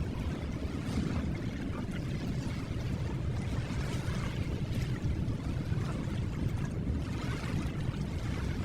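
Ocean waves washing ashore: a steady low rumble with swells of surf hiss about every three seconds.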